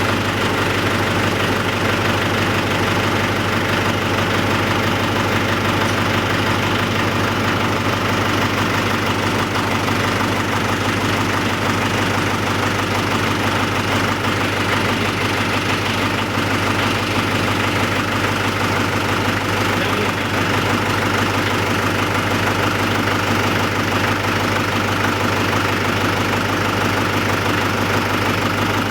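Farm tractor's diesel engine running steadily at an even, unchanging pitch.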